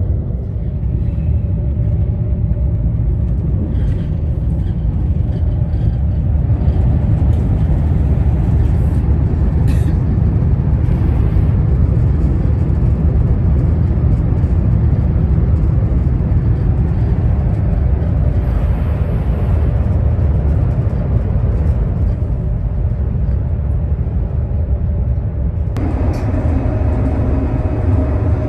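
Cabin noise inside an ICE high-speed train running at about 260 km/h: a loud, steady rumble of the running gear and rails. Its tone shifts a little near the end.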